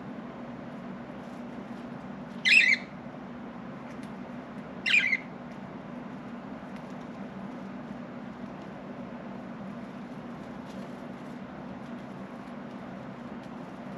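Budgerigar giving two short, harsh squawks about two and a half seconds apart, over a steady low hum.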